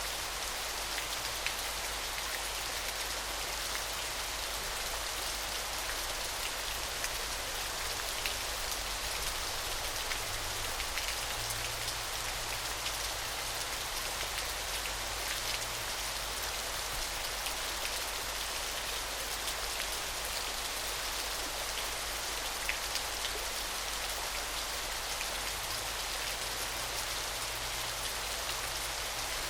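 Small waterfall: a steady, unbroken hiss of falling water, flecked with many small crisp splashes of drops.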